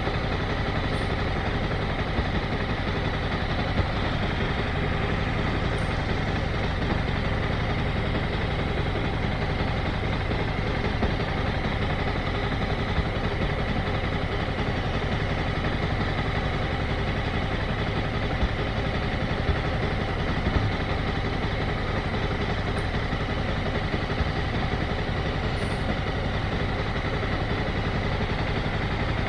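Motorcycle engine running steadily at idle, with no revving.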